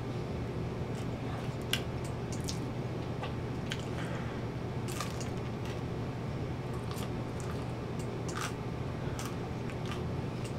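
A person biting and chewing a slice of pizza close to the microphone: scattered short irregular mouth clicks, one a little louder near the start, over a steady low hum.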